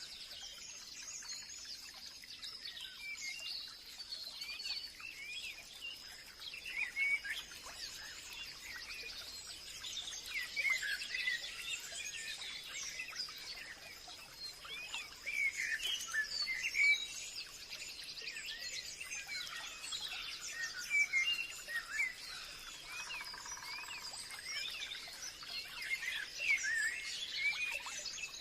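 Forest ambience of many birds chirping and calling over one another in a dense chorus. A thin, steady high tone runs under the birdsong through roughly the first half.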